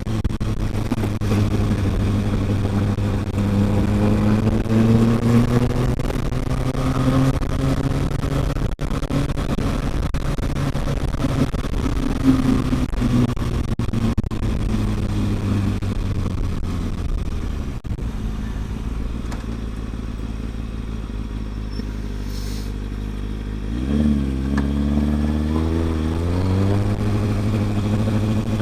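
Kawasaki ZX-6R 636 inline-four engine running under way, its pitch rising as it speeds up and then easing back down. It settles to a lower, steady note, then climbs sharply again near the end.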